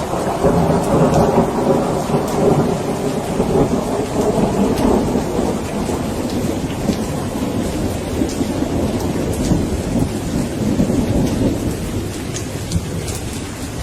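Steady rain with a long roll of thunder rumbling through it, the rumble dying away over the first half. Sharp drop impacts tick through the rain.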